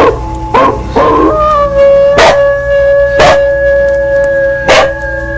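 A bell ringing with long, lingering tones, and over it a dog barking sharply about five times and howling along.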